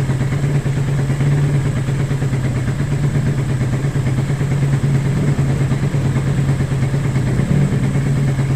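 Suzuki Raider 150's single-cylinder four-stroke engine idling steadily as it warms up, on a bike that is hard to start and is being checked for an unstable idle and backfiring.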